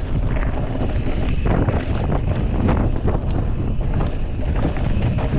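Wind buffeting the microphone while riding, with steady low rumble and frequent short rattles and knocks from the ride over rough trail.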